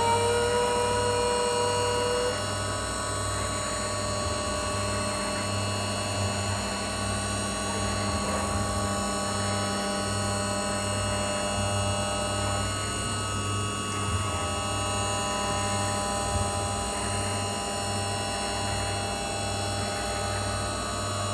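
CNC milling machine running while cutting the profile of a hot runner manifold: a steady mechanical whine made of several held tones over a pulsing low hum. One strong tone stops about two seconds in, and the sound gets a little quieter.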